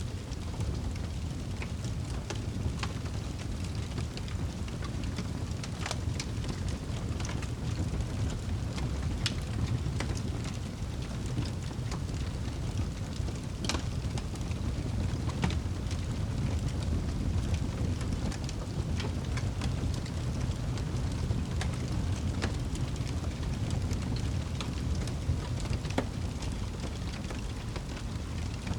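Wood fire burning in a fireplace: a steady low rumble from the flames, with scattered sharp crackles and pops at irregular intervals.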